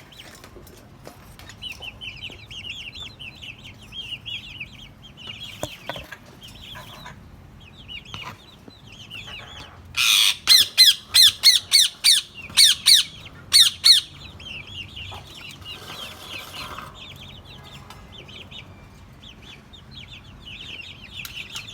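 Parrot chattering in quick, high chirps, with a run of about ten loud, sharp screeches in quick succession about halfway through.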